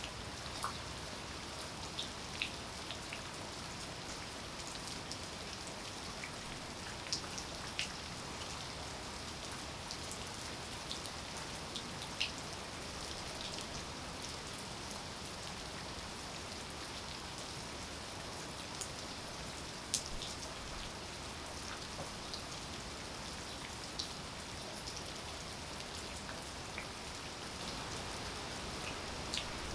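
Steady rainfall, an even hiss with scattered individual drops ticking sharply close by.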